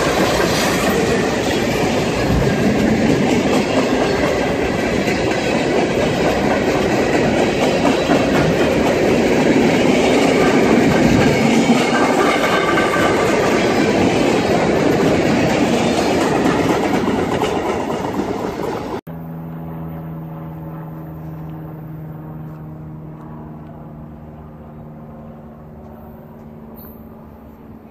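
BNSF freight train of boxcars and centerbeam flatcars rolling past close by, its wheels and cars making a steady, dense rumble. About two-thirds of the way through, the sound drops suddenly to a much fainter steady hum that slowly fades.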